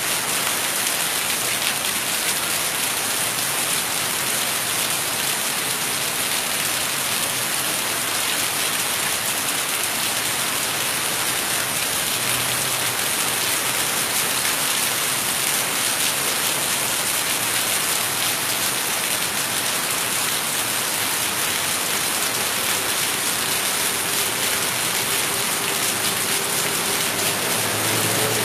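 Heavy rain in a steady downpour: a dense, even hiss of rain falling and splashing on surfaces, unchanging throughout.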